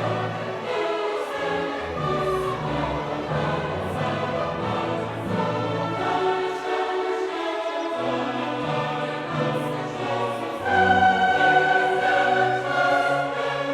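Classical choral music: a choir singing long held notes with an orchestra, swelling louder near the end.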